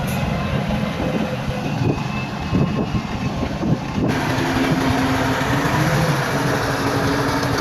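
Heavy diesel earthmoving machinery running steadily. About four seconds in the sound changes abruptly and a steady low engine tone comes up.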